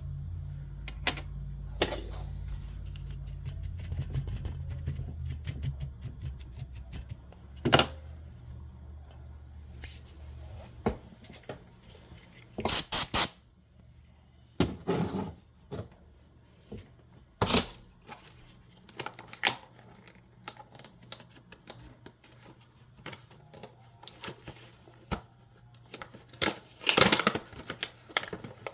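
Scattered clicks, taps and short clattering bursts of small hard plastic and metal parts being handled while RC car wheels and their screws are fitted, over a low steady hum that fades after the first several seconds.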